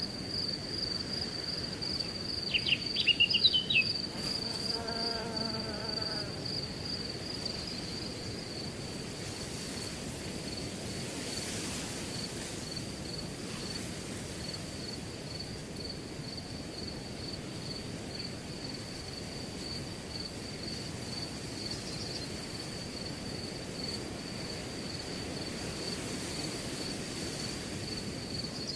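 Crickets chirping in a steady pulsing trill over a low hiss of wind through grass. About three seconds in comes a quick run of loud high chirps, then a brief lower call.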